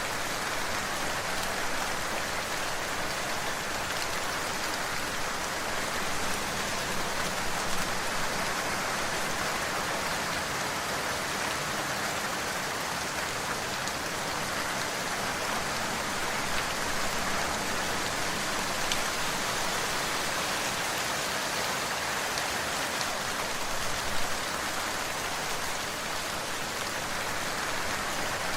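Steady rainfall, an even hiss of many drops with scattered individual drop ticks and a few slightly louder splats.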